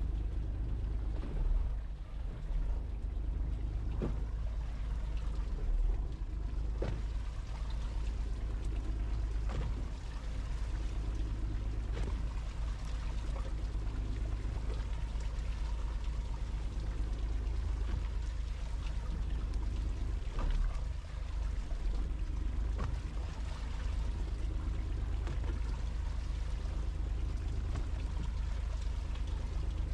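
Fishing boat's engine running steadily at low revs under the sound of trickling, pouring water, with a few soft knocks.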